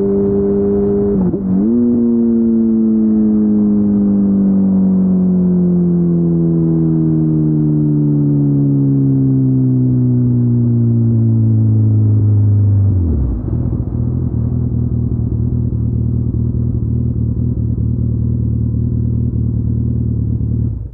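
Kawasaki ZX-14R's inline-four, through an Akrapovic exhaust, slowing down. There is a quick break in the engine note about a second in, then the note falls slowly for about ten seconds as the bike slows. Near the end it drops to a steady idle and cuts off at the very end.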